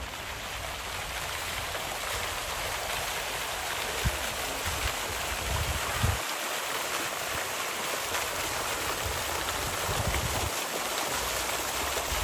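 Steady rushing, splashing water, an even hiss with no rhythm.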